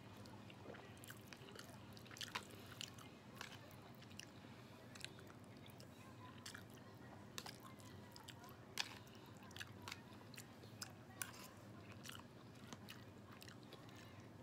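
A person chewing food with her mouth close to a phone's microphone: faint, irregular mouth clicks and smacks, with a few sharper ones scattered through.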